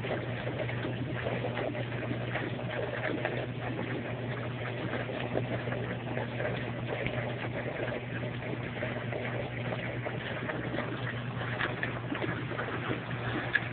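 Brastemp washing-machine motor running a homemade electric washtub: a steady low hum with water churning and splashing in the tub.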